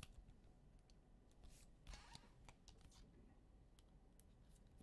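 Near silence with a few faint clicks and short rustles of trading cards being handled and slid from a pack.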